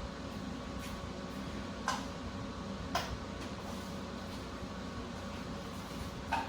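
Steady low background hum with three short sharp clicks, about two, three and six seconds in.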